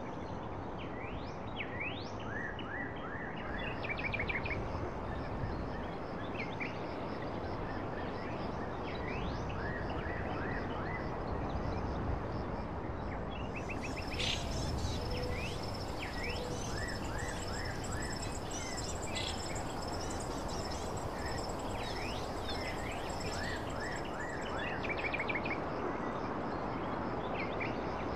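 Small birds chirping in short rising calls, repeated in quick little groups, over a steady background hiss; from about halfway through, a thin high whine joins in for roughly ten seconds.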